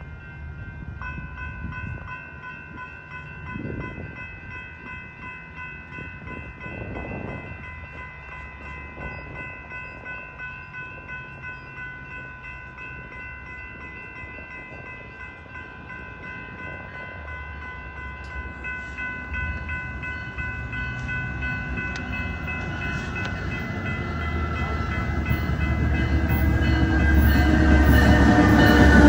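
Metra commuter train with a diesel locomotive approaching the station, its rumble growing steadily louder over the last ten seconds as it pulls up to the platform. Steady ringing from the grade-crossing warning bells runs underneath throughout.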